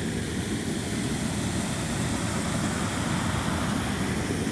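Water rushing steadily: a creek running high with rain runoff.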